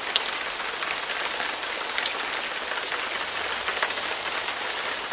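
Steady monsoon rain falling: an even hiss with scattered sharper ticks of individual drops.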